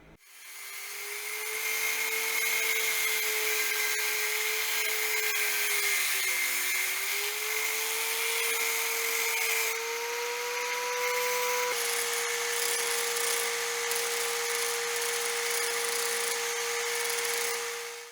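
Handheld electric power tool running steadily under load on metal: a steady motor whine over a loud, harsh hiss. The whine's pitch wavers slightly and settles at a new steady level about twelve seconds in.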